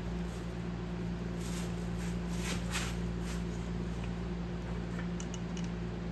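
A steady low hum, like a motor or fan running, with a few faint rustles and light handling ticks.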